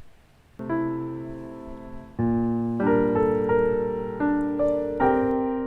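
Background music: slow piano chords, the first entering about half a second in, each ringing out and fading before the next.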